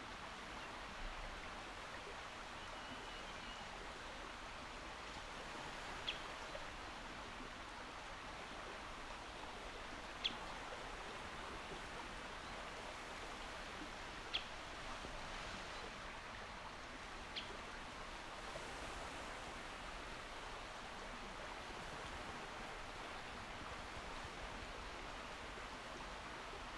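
Calm sea: a faint, steady wash of gently moving water with no distinct breaking waves. Four short, high chirps or ticks stand out above it every three to four seconds.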